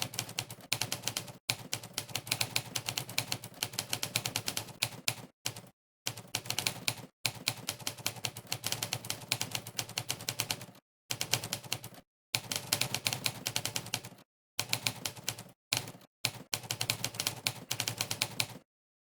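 Monkeytype's "typewriter" keystroke sound effect: rapid typewriter key clacks, one per keystroke, in runs broken by brief pauses. It stops a little before the end.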